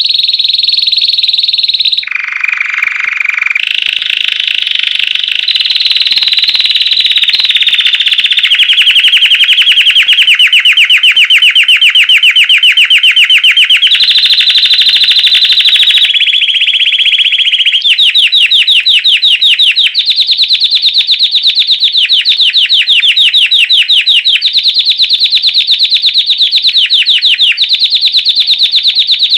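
Belgian canary singing a loud, continuous song of rapid trills in the classic campainha (bell) style. It shifts between tours every few seconds, dropping briefly to a lower trill near the start, then settles into a pulsed trill repeated in phrases about two seconds apart.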